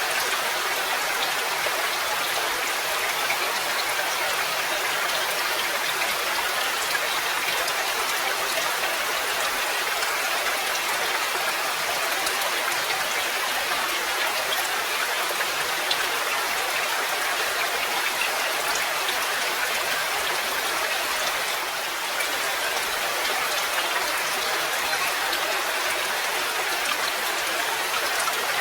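Steady, even rain: a dense hiss of falling drops pattering on a surface.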